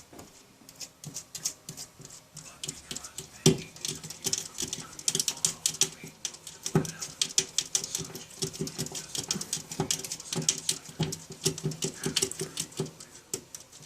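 A cat chattering at a bird: rapid clicking chatter with small chirps mixed in, coming in runs, with one sharper click about three and a half seconds in.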